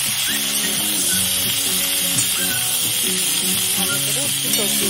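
Mixed shukto vegetables (drumstick, carrot, potato, papaya) sizzling steadily in hot oil in a kadai as they are stir-fried and turned with a spatula.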